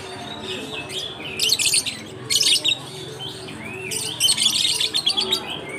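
A group of lovebirds chattering and screeching in shrill, rapid bouts, three loud bursts with short chirps in between.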